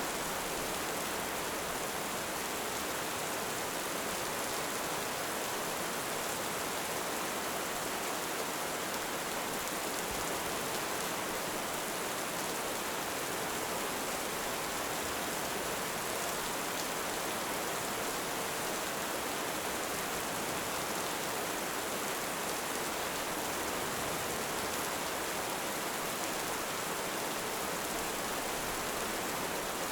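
Heavy rain falling steadily, an even hiss with no rise or fall and no thunder.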